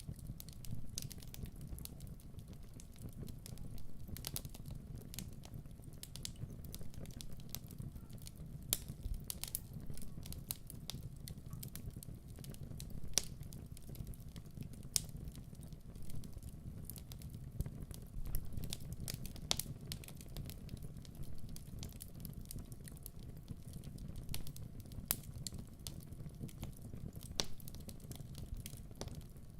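Wood fire burning in a fireplace: a low steady rumble under irregular crackles and pops, with a few sharper snaps scattered through.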